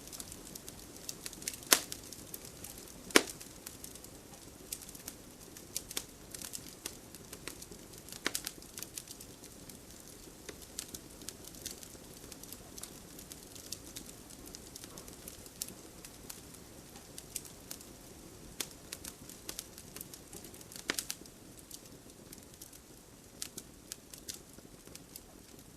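A fire burning in a fireplace: steady crackling, with irregular sharp pops over a low rushing of flame. The loudest pops come about two and three seconds in, with another near the end.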